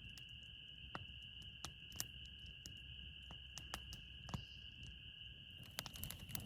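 Faint, steady high-pitched trilling chorus of small animals, one lower strand of it stopping near the end, with scattered sharp clicks.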